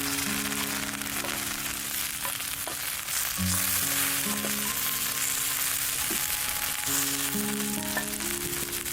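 Beef frying, sizzling steadily, over soft background music.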